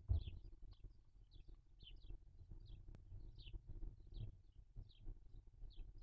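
A bird chirping over and over, short falling high chirps about twice a second, over low rustling and knocks, the loudest knock right at the start.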